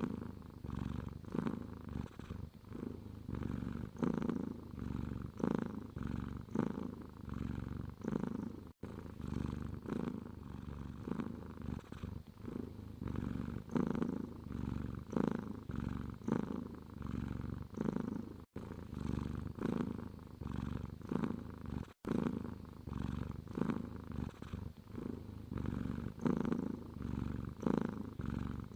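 Domestic cat purring steadily, swelling and fading with each breath in and out. The sound breaks off for an instant three times.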